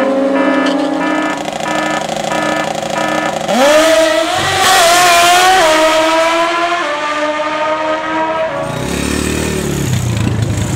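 Drag-racing motorcycle engines held at steady revs on the line, then launching about three and a half seconds in: the pitch climbs sharply and steps up through several gear shifts before the sound fades off down the strip. A lower engine rumble comes in near the end.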